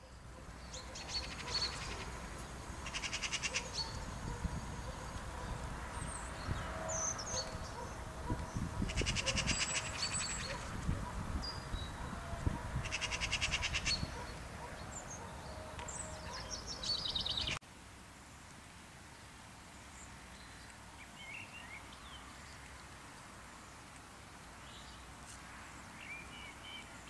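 Small birds chirping outdoors, with three high buzzy trills of about a second each among scattered short chirps. A low rumble runs under the first two-thirds and cuts off suddenly, leaving only faint chirps.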